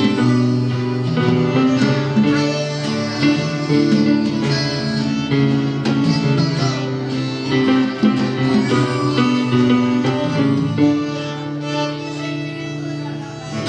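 Live band playing an instrumental passage, with sustained guitar notes carrying the melody over the band.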